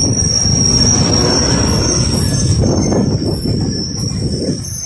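Coaster bilevel passenger cars rolling past at close range: a steady rumble of steel wheels on the rails with a thin, high-pitched wheel squeal over it, easing off near the end as the cab car passes.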